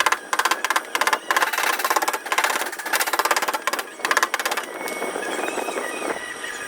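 Rapid, evenly repeated tapping on a car body panel during paintless dent repair, coming in runs with short breaks. A steadier, rougher noise fills a second or so near the end.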